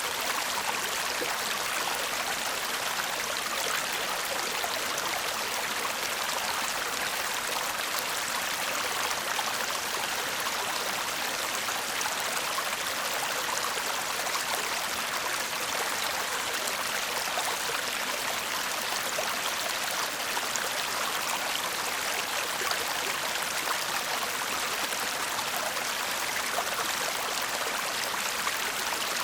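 A shallow stream babbling over stones, a steady, even rush of water with fine splashing and trickling.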